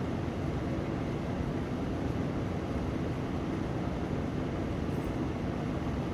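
Steady low rumbling background noise, even throughout, with no voice or music.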